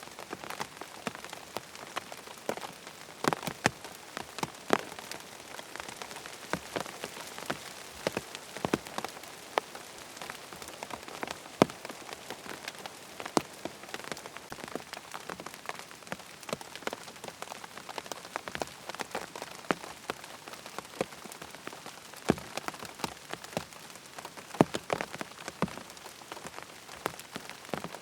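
Steady rain falling on a tent, with a constant hiss and many distinct, irregular drops tapping on the fabric.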